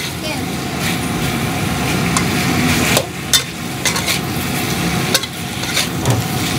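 Filipino pork steak and onion rings sizzling in an oiled wok while a spatula stirs and turns them, clicking and scraping against the pan several times.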